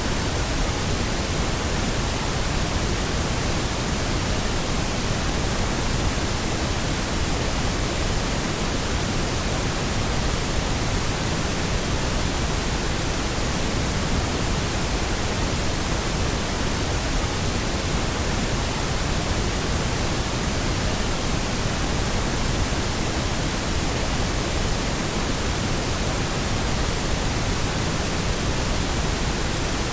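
Steady pink noise: an even, unchanging hiss with a deep, full low end and no tones or events, generated as a sleep and sound-masking aid.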